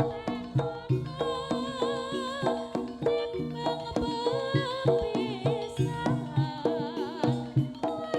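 Javanese gamelan ensemble playing: hand-drum strokes and struck metal gong-chime notes in a quick even beat, with a high wavering melody line above them.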